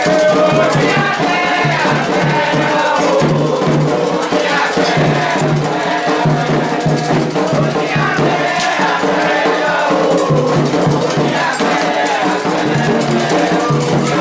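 Candomblé ceremonial music: voices singing a chant over shaken rattles and percussion.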